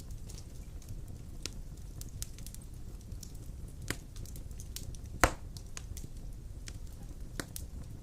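Fire burning in a fireplace: a steady low rumble with scattered sharp crackles and pops, the loudest pop a little past five seconds in.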